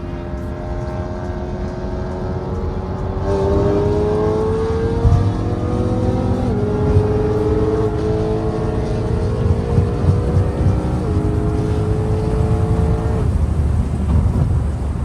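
Straight-piped BMW E92 M3's 4.0-litre V8 accelerating, its note climbing slowly through a gear and dropping sharply at two upshifts, about halfway and two-thirds of the way through. The engine note then falls away near the end as the driver comes off the throttle.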